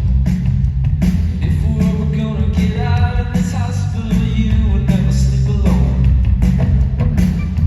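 A band playing live, with heavy, booming bass, regular drum strokes and a shifting lead melody line over it.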